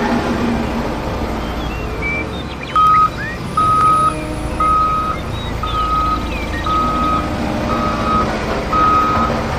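Reversing alarm beeping, a single steady tone repeating about once a second, starting about three seconds in, over a low vehicle rumble.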